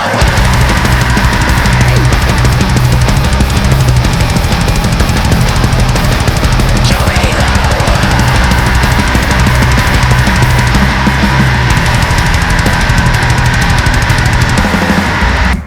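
Loud, dense heavy rock music with a drum kit driving it. It breaks off abruptly at the very end into a quieter passage.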